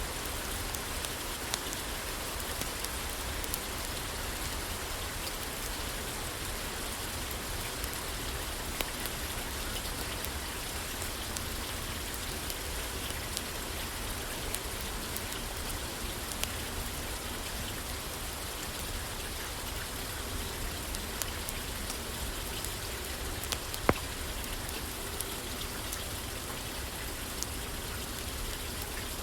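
Steady rain pattering on a roof, with scattered sharp clicks and pops through it and one louder pop late on.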